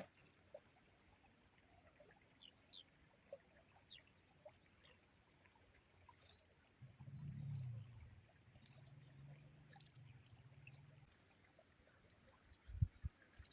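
Faint scattered bird chirps over a quiet rural background. A low hum swells and fades in the middle, and two sharp knocks come near the end.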